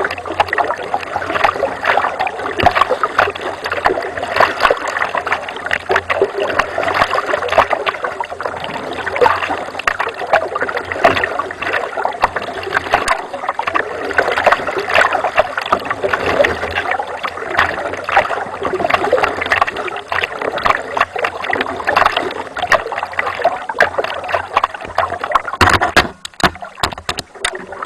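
Water splashing and gurgling against a kayak close to the microphone, a steady churn of many small splashes that thins out near the end.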